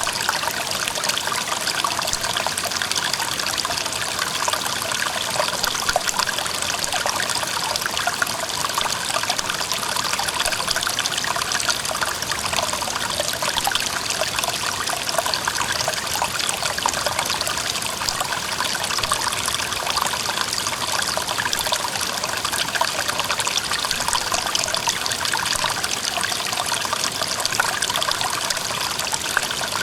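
Mountain stream running over rocks, a steady rush of water with fine, dense trickling and splashing.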